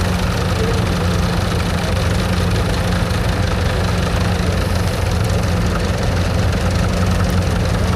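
Vintage tractor engine running at a steady speed, a low even drone.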